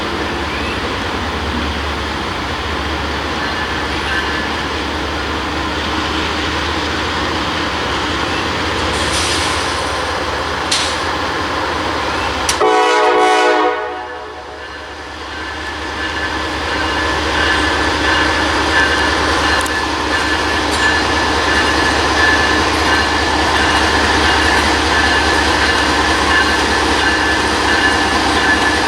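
Norfolk Southern freight train rolling past with a steady rumble. About halfway through, the locomotive horn sounds one short blast of about a second; later a thin high steady tone joins the rumble.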